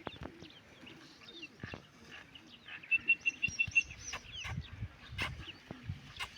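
Small birds chirping, with a quick run of about six short, even notes about three seconds in, and a few sharp clicks among them.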